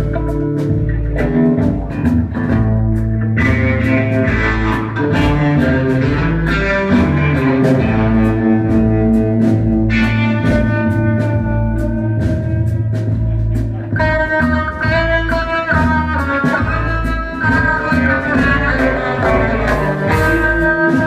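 Live band playing an instrumental passage: guitar over bass with a steady drum beat.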